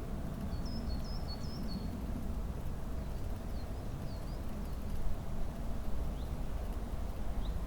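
Small songbirds chirping: a quick run of high chirps about half a second in, then scattered single chirps, over a steady low rumble.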